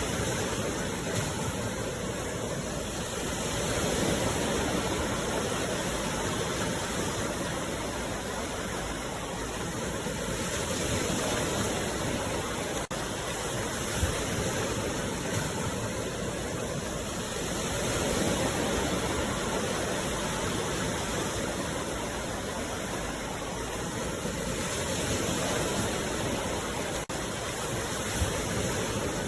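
Sea waves washing on the shore: a steady rush of surf that swells about every seven seconds.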